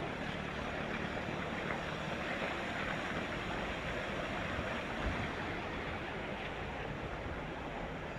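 Steady rushing noise of wind and ocean surf, with a low rumble underneath.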